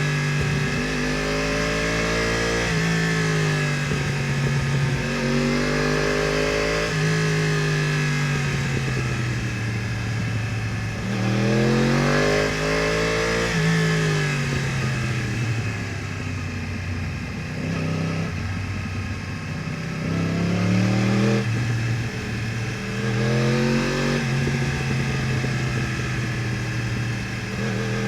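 Yamaha R1's crossplane inline-four engine through an Akrapovič exhaust, pulling hard while riding. Its pitch rises repeatedly under acceleration, drops suddenly at upshifts and slides down as it slows for corners.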